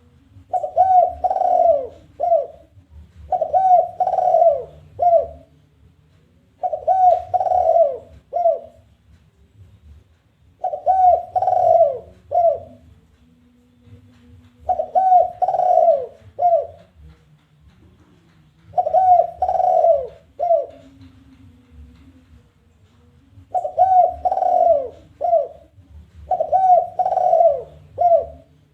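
Spotted dove (tekukur) giving its challenging cooing song: about seven phrases, one every four seconds or so, each a run of throaty coos ending in one short clipped note, the 'kuk 1' call used as a lure to draw other doves.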